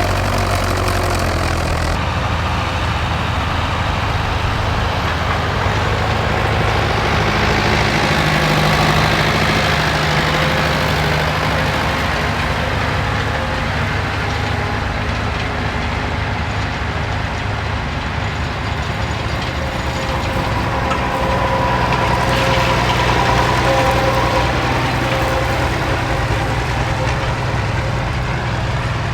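Tractor engine running steadily under load, growing a little louder twice.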